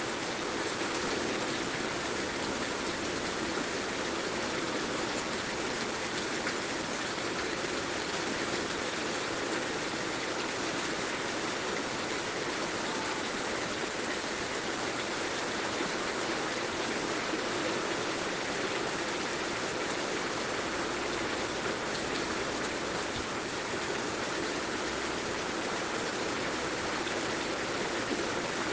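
Steady heavy rain, an even hiss of falling rain without a break or change.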